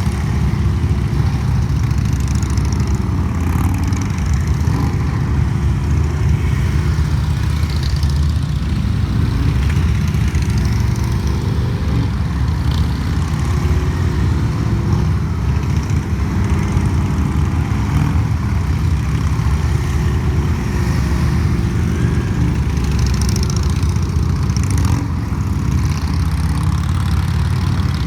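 Motorcycle engines running steadily at low speed as four riders ride a cone course together, a continuous low engine sound with no pauses.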